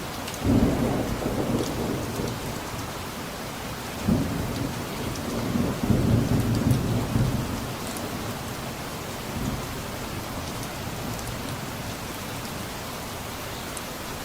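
Steady rain falling, with a low rumble of thunder that starts about half a second in and swells again from about four to seven seconds, then fades back to rain alone.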